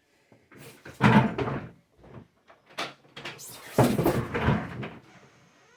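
Two loud bursts of knocking and rattling, one about a second in and a longer one near four seconds, with a few small clicks between.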